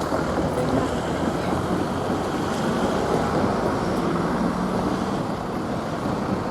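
SN61 diesel railcar on the move: a steady mix of engine drone and rolling noise with a faint low hum.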